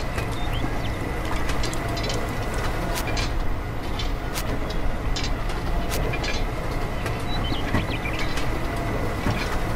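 Small electric motor of a miniature model machine running steadily, with a thin steady high whine over a low rumble and scattered light clicks and taps.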